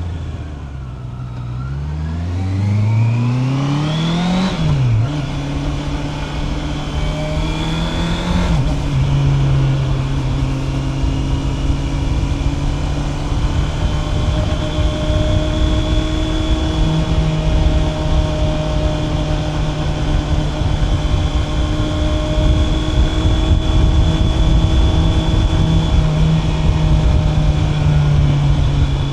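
Honda CB650R's inline-four engine running under a ride: the revs sink low at first, then climb with two quick upshifts, about five seconds and eight and a half seconds in. After that it holds a steady cruise to the end, over a constant rush of wind and road noise.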